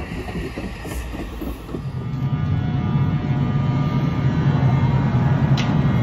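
NJ Transit Multilevel passenger cars rolling past with rail noise, then, after a cut about two seconds in, a steady, louder hum with a set of even tones from an ALP-46 electric locomotive running close by.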